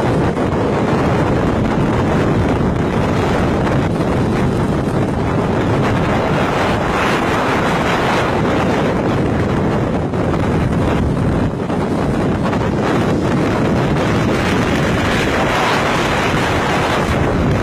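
Strong wind blowing hard across the microphone: a loud, steady rushing noise throughout, with small surges and no pauses.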